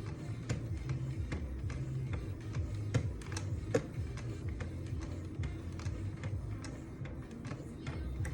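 Strop paddles on a Wicked Edge guided sharpener being stroked along a knife blade, giving light irregular ticks and clicks, two of them louder about three and nearly four seconds in, over background music.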